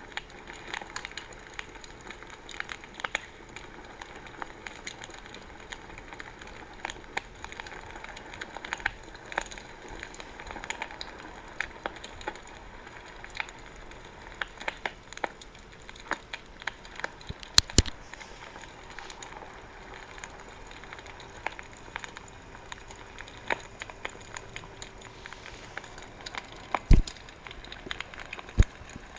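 Campfire crackling: a dense scatter of small sharp pops over a soft, steady hiss. A few louder pops come a little past the middle and near the end.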